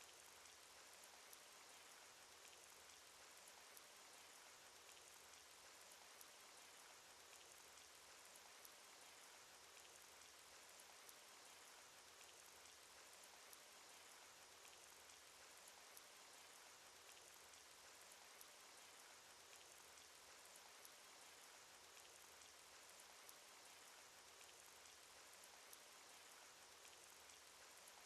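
Faint, steady rain sound effect: an even hiss of falling rain with many light drop ticks scattered through it.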